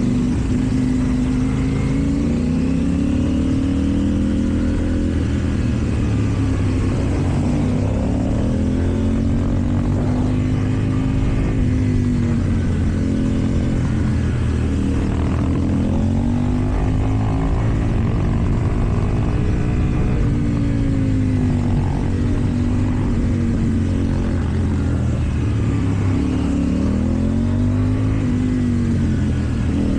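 KTM Duke 790's parallel-twin engine through an Akrapovič exhaust, revving up and easing off again and again as the rider accelerates and slows. The engine pitch climbs and drops about four times.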